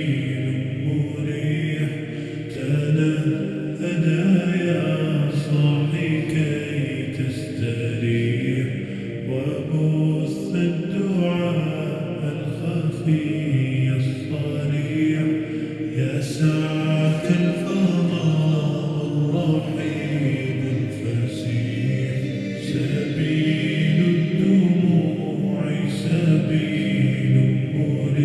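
Vocal-only Arabic nasheed, slowed down with heavy reverb: layered, chant-like male voices holding long sustained notes with no instruments.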